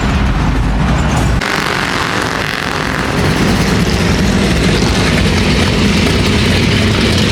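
A car driving, with engine rumble and road noise. About a second and a half in, the sound changes abruptly: the low rumble drops away and a hissing road noise takes over, then the rumble slowly returns.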